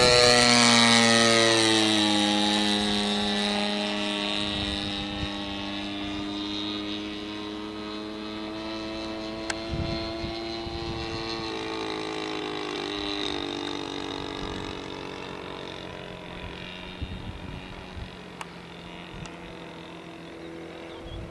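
Engine and propeller of a radio-controlled P-47 Razorback model airplane in flight: a close pass with the note dropping in pitch in the first two seconds, then fading steadily as the plane flies away.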